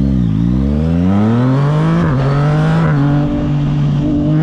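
2025 Yamaha MT-09's 890 cc inline-three engine through an aftermarket AT2 exhaust, its revs climbing over about two seconds, then dipping slightly and holding fairly steady at higher revs.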